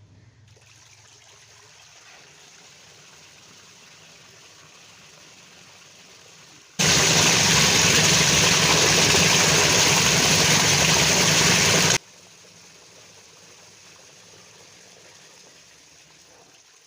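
Water running steadily into a washing machine tub, with a much louder rush of water for about five seconds in the middle that starts and stops abruptly.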